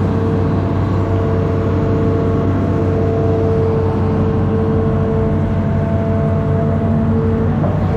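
Amphibious excavator's diesel engine running steadily under load, a deep drone with a steady whine above it that drops out briefly twice.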